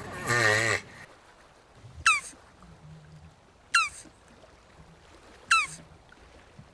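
Jabuti tortoise's wavering, groaning call ending about a second in. Then three short high chirps, each falling quickly in pitch, spaced about a second and a half to two seconds apart.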